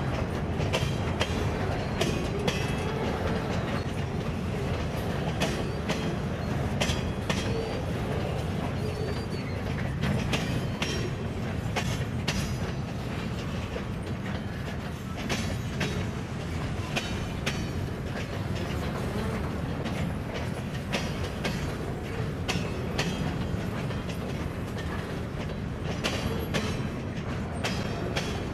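Freight train cars rolling past, their wheels clicking steadily over the rail joints with a continuous rumble and brief faint wheel squeals.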